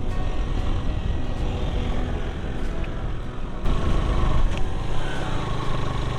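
Motorcycle engine running while riding, under heavy wind rumble on the microphone. It gets louder about four seconds in.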